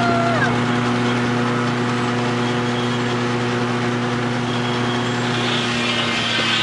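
Steam-engine-powered sawmill machinery running steadily: a constant hum of several pitches, with a short falling whine right at the start and a change in the hum near the end.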